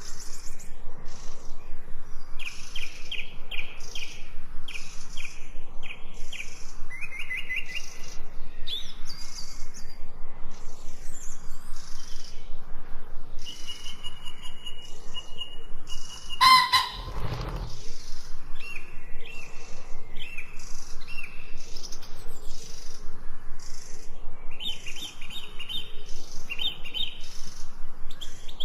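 Songbirds chirping and trilling continuously in quick repeated high notes. One brief, louder sound cuts in about two-thirds of the way through.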